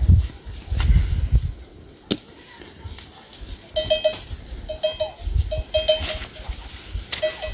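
Farm animal calls: short pitched notes in quick runs of three or four, starting about halfway through, after low rumbling at the start.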